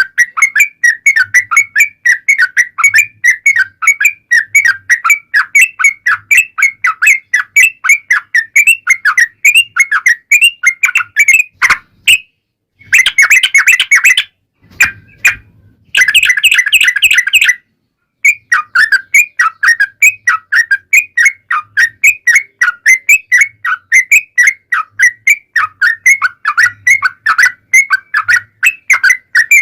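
Yellow-vented bulbul (trucukan) singing a long, rapid run of chattering notes, about three a second. The song breaks off briefly around 12 seconds and again around 18 seconds in, with two denser, louder bursts between the breaks.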